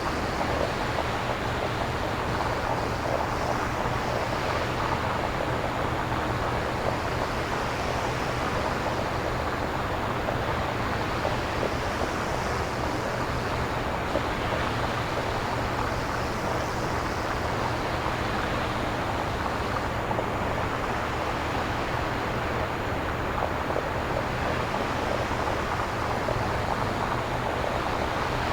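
Synthesized nature-style noise: a steady, surf-like rush with slow swells every few seconds, generated electronically rather than recorded.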